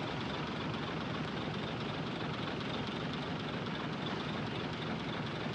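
Heavy earthmoving machinery's diesel engine running steadily, a continuous even noise with no distinct knocks or revving.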